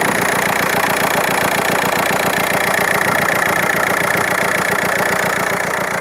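Audi A4 B6 TDI diesel engine idling steadily with an even, fast pulsing, filmed for a strange noise whose cause the owner doesn't know.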